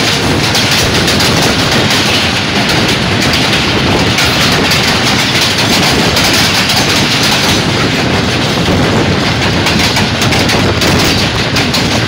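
Pakistan Railways passenger coaches rolling past at close range: a loud, steady rumble of steel wheels on rail with a rapid clatter over the rail joints.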